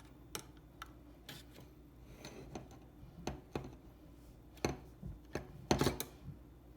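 Scattered clicks, taps and scrapes of kitchen handling as a can of sloppy joe sauce is readied to pour, with a few louder knocks near the end.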